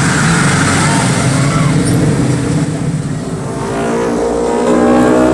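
Motor vehicle engines in slow road traffic, one engine running low and then revving up with a rising pitch from about three and a half seconds in.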